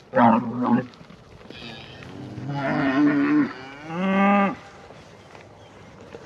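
Highland cattle mooing: three calls, a short one at the start, a longer one about a second and a half in, and a shorter one about four seconds in.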